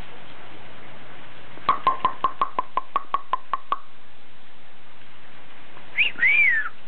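A pet bird makes a quick run of about a dozen clicks, roughly six a second. Near the end it gives a short two-part whistled chirp that rises and then falls.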